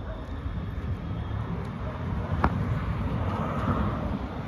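Low, gusty rumble of wind on the microphone with faint vehicle noise as a small electric dump truck drives off, and a single sharp click about two and a half seconds in.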